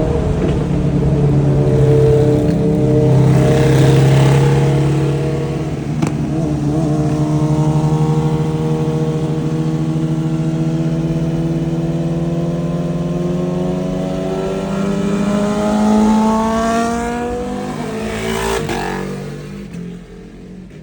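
Sport motorcycle with a full exhaust running at highway speed under load. The engine note holds steady, then climbs gradually in pitch as the bike accelerates, and breaks into a lower, rougher note near the end as the sound fades.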